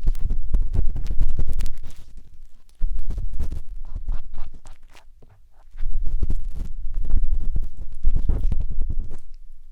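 A matchstick scraping and rubbing inside the silicone ear of a 3Dio binaural microphone: close, rumbling, crackly scratches in several bouts, with short lulls about two seconds in and around five seconds.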